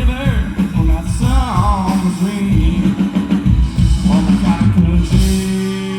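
Live rock band playing with drum kit, bass and guitar and a pitch-sliding melody line. About five seconds in, the band lands on a single chord and holds it ringing.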